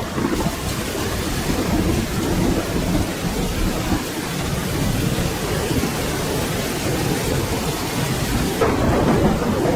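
Steady rain falling, with a low rumble of thunder that swells again near the end.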